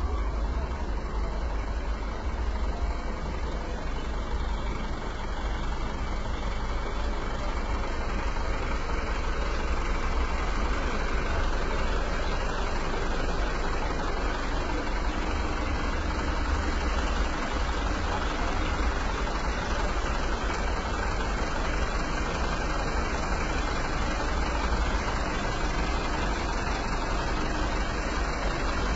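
Truck engine idling steadily, with a deep low rumble.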